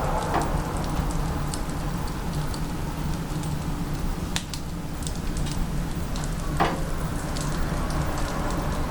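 Wood fire burning in a wood-burning stove: a steady low rumble with scattered crackles and pops, and a sharper crack about four and a half seconds in and another near seven seconds.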